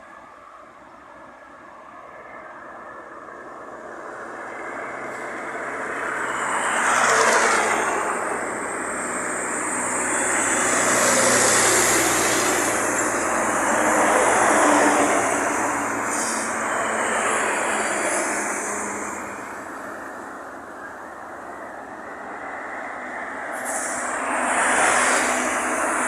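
Motor vehicles passing one after another, each swelling in a rush of noise and fading away, with the pitch dropping as they go by.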